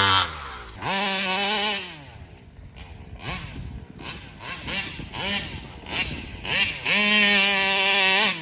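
Taylor RC 35 cc reed-valve two-stroke engine in a large-scale RC car revving hard: a full-throttle burst about a second in, a string of short throttle blips, then a second long full-throttle run near the end.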